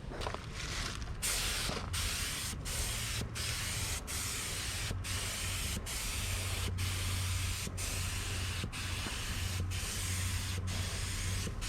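Compressed-air paint spray gun hissing in passes, cut briefly by trigger releases about once a second, with a low hum underneath. It is laying down a coat the painter finds blotchy, at an air pressure he means to turn up.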